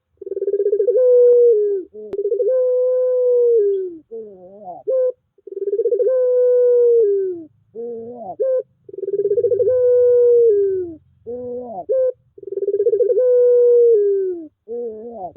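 Puter pelung dove cooing over and over, a lure recording meant to prompt silent puter doves to start cooing. About five long drawn-out coos, each wavering at the start and dropping in pitch at the end, each led in by a short burst of quavering rising notes.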